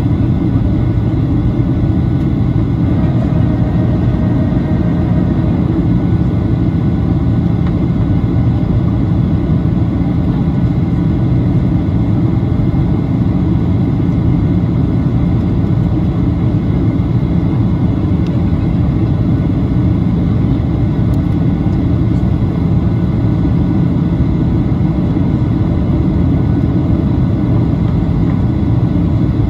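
Steady cabin noise inside a Boeing 737-800 in flight: a constant low rumble of airflow and its CFM56 jet engines, unchanging throughout.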